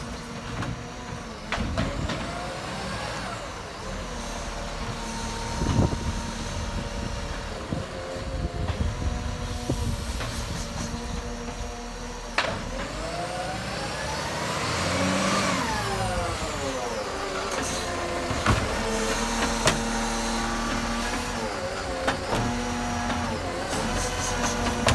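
Garbage truck's engine running, with a series of clanks and knocks. About halfway through its pitch climbs and then falls back.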